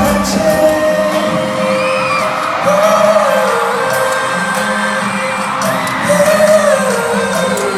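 Live K-pop concert music: sung melody held in long gliding lines over a backing track with a steady bass, and whoops from the arena crowd.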